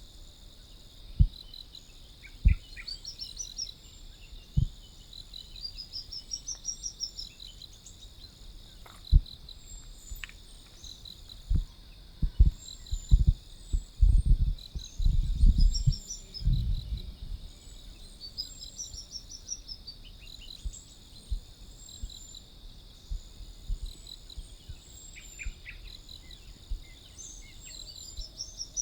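A sunbird's high, quick song phrases, runs of notes that rise and fall, repeated several times over a steady high chorus of crickets or other insects. Scattered low thumps and rumbles come and go, bunched around the middle.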